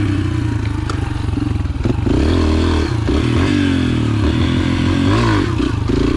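Yamaha TT-R125's four-stroke single-cylinder engine running under a varying throttle, its pitch rising and falling over and over as the bike is ridden, with some clatter.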